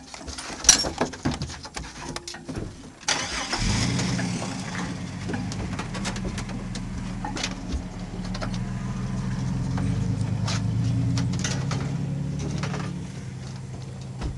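Vehicle engine starting about three seconds in, after a few clicks and knocks, then running steadily.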